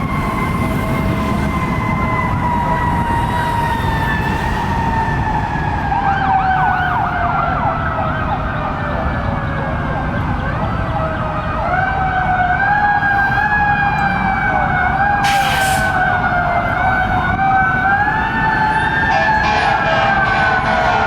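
Fire engine siren wailing. Its pitch slowly falls over the first ten seconds or so, then rises again about halfway in. A second, faster warbling siren cuts in around six seconds in and again near the end, over a constant low rumble of engines and traffic.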